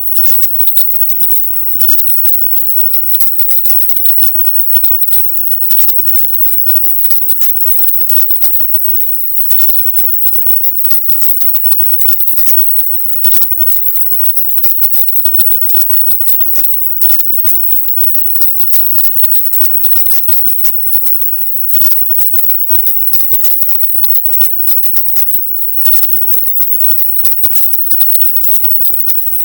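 Silent-subliminal audio track: a dense, choppy crackling hiss, brightest at the very top of the hearing range, flickering rapidly and cutting out briefly now and then.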